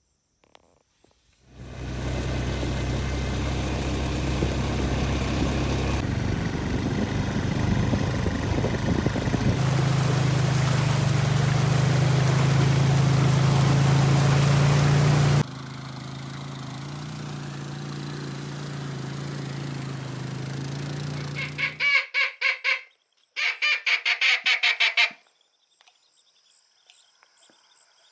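An engine running steadily for about twenty seconds, broken by abrupt changes in level that sound like cuts. Then a quick, evenly spaced run of loud honking waterfowl calls lasting about three seconds, followed by faint background.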